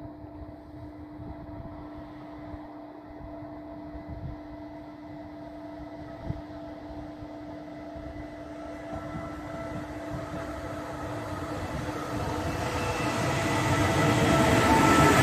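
A double-deck regional train approaching and running into the station, its rumble and rail noise growing steadily louder over the last six seconds or so. A steady hum runs underneath, and there is a single sharp click about six seconds in.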